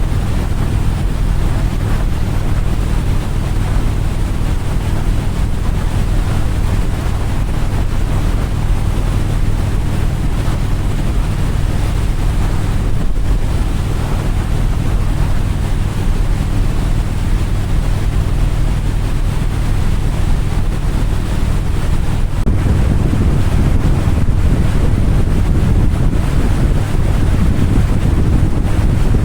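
Wind buffeting the microphone over a low, steady engine drone.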